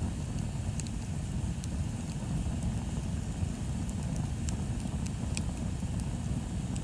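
Bonfire burning: a few sharp, scattered crackles of burning wood over a steady low rumble.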